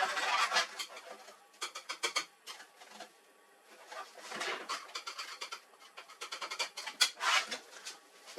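Irregular clicks, scrapes and rattles of printer parts being handled and worked on, with a sharper click about seven seconds in.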